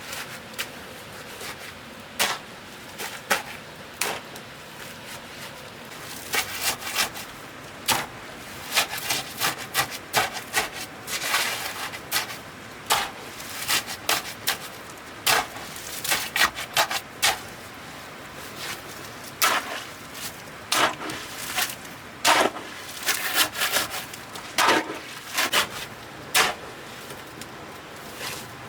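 A hand tool scraping through a sand and cement mix in irregular short, gritty strokes, as the mix is worked by hand.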